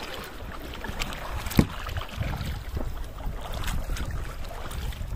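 Wind buffeting the microphone out on open water: a steady low rumble with scattered small clicks, and one sharp knock about one and a half seconds in.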